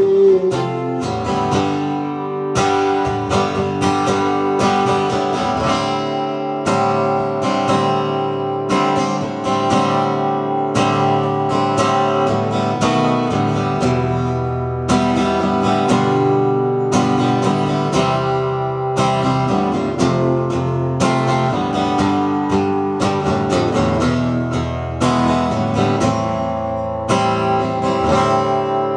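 Acoustic guitar strumming chords at a steady rhythm in an instrumental break between sung verses of a folk song.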